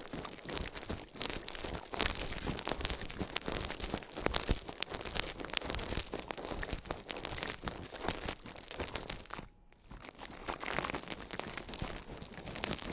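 Close-miked ASMR sounds: dense scratching and crackling with many small clicks, dropping out briefly near ten seconds.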